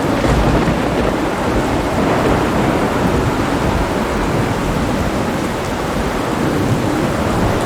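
Heavy rain pouring steadily, with a continuous deep rumble of thunder underneath.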